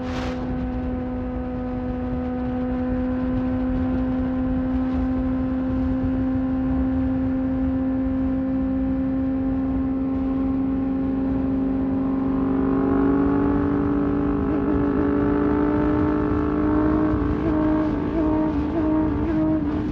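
Sport motorcycle engine running at steady, fairly high revs while riding, its note climbing a little about two-thirds of the way through, then wavering in short dips near the end.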